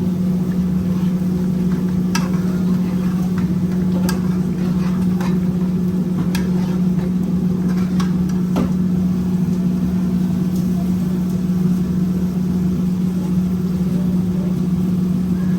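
A steady low mechanical hum, with a sharp click or pop every second or two from the pot of chicken curry cooking on the stove.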